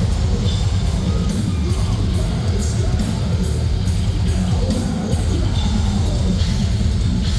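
Metalcore band playing live at full volume: heavy guitars and bass over drums with steady cymbal crashes.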